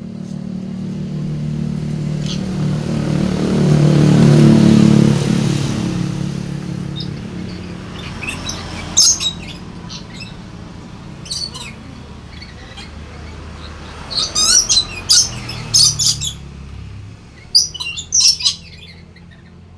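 A motor vehicle passes, its engine sound swelling to a peak a few seconds in and then fading. A nuri parrot (lory) then gives loud, high-pitched calls in short clusters, a few around the middle and a burst near the end.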